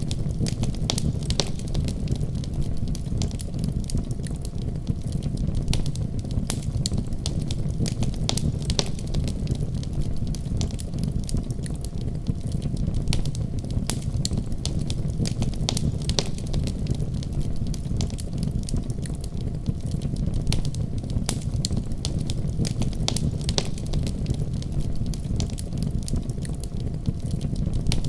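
Wood fire crackling in a fireplace. Frequent irregular sharp pops and snaps sit over a steady low rumble of the flames.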